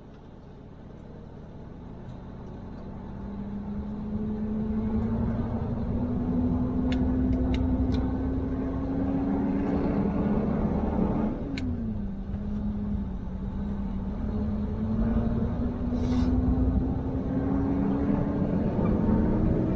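Truck engine accelerating through the gears: its pitch climbs steadily, falls at an upshift about halfway through, then climbs again and falls at another shift near the end, over road rumble.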